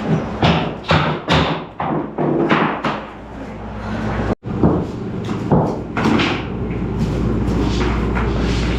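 A series of irregular knocks and thumps over a steady low hum, broken by a sudden cut about four and a half seconds in.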